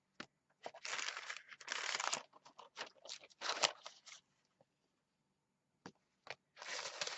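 Paper tags and sheets of watercolor paper rustling and crinkling as they are handled and shuffled, in two bursts of a second or so each with light clicks in between.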